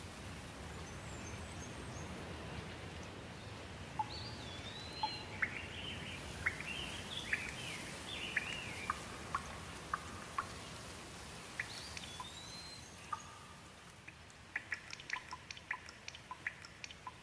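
Steady rain with birds calling over it, a run of sliding whistled notes from about four seconds in. The rain fades near the end and a quick patter of drips takes over.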